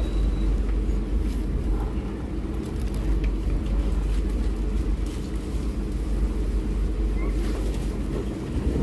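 Steady low rumble inside an economy passenger train carriage as the train pulls out of a station at low speed, with a few faint clicks over it.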